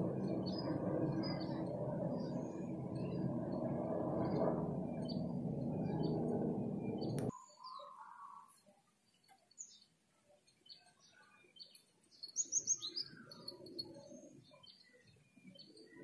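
Small birds chirping in short repeated notes, with a louder run of quick rising chirps about twelve to thirteen seconds in. For the first seven seconds a steady low noise lies under the chirps and cuts off abruptly.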